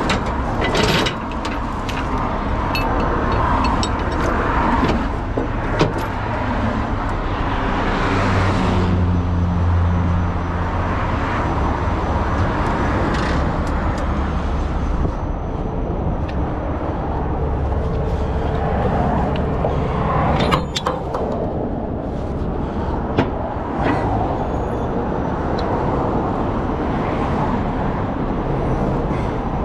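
Steady road vehicle noise with an engine running, its low hum swelling about a third of the way in, and a few sharp clicks and knocks.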